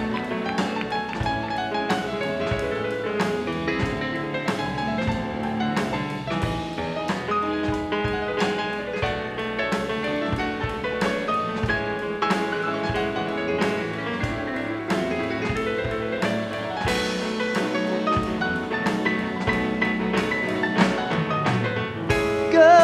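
Live band playing an instrumental break of a country song without vocals: many sustained notes over a steady drum-kit beat, the solo spot of a band member who has just been introduced.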